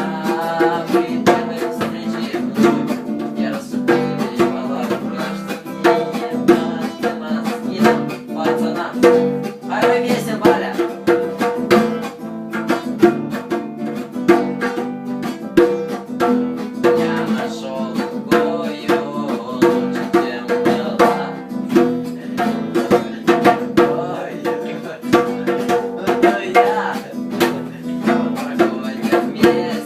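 Music played on a strummed plucked-string instrument, guitar-like, with a steady rhythm of even strokes over sustained low notes.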